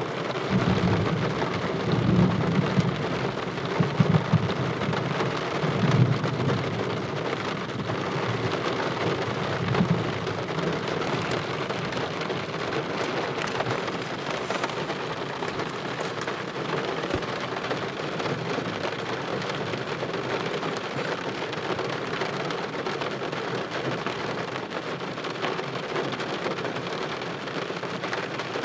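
Steady rain falling through a thunderstorm, with low rolling thunder rumbling over roughly the first ten seconds, swelling several times, then easing off to rain alone.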